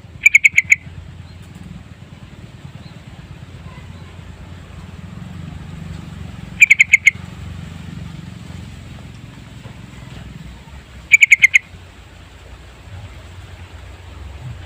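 Yellow-vented bulbul (trucukan) calling: three short, bubbly phrases of about five quick notes each, repeated every four to five seconds over a low steady hum.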